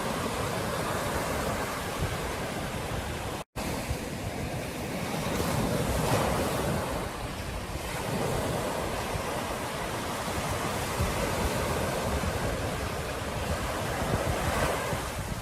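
Ocean surf washing onto a beach in a steady rush, swelling louder about six seconds in and again near the end, with wind buffeting the microphone. The sound cuts out completely for a split second a few seconds in.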